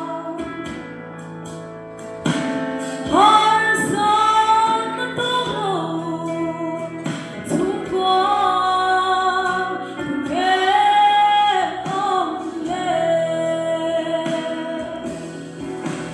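A woman singing a slow gospel song with long held notes over a steady instrumental accompaniment.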